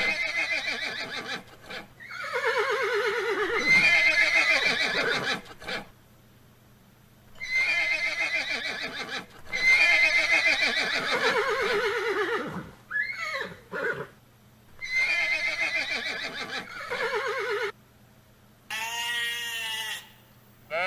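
A horse whinnying, repeated several times: long neighs with a quavering pitch, separated by short pauses.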